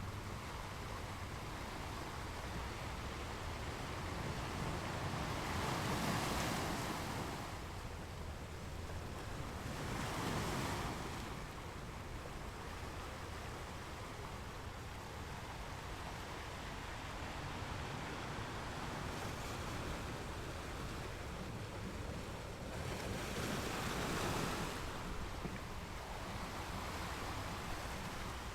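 Ocean waves breaking on a beach: a steady wash of surf with three waves swelling and breaking, about six seconds in, about ten seconds in, and near the end.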